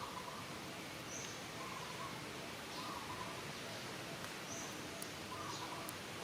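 Outdoor ambience: a steady hiss with scattered short bird calls, some low and brief, a few high thin chirps.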